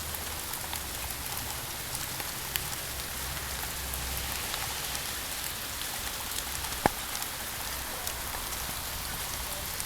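Steady rain falling, an even hiss with many small scattered drop ticks, and one sharper click about seven seconds in.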